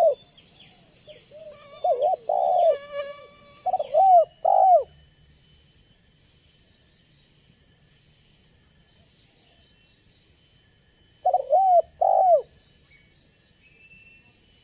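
Spotted dove cooing: three short phrases of rising-and-falling coos in the first five seconds, then a pause of about six seconds and one more phrase near the end.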